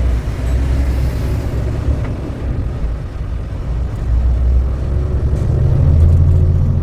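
Low, steady drone of a truck driving at highway speed, heard from inside the cab: engine and road rumble, growing louder toward the end.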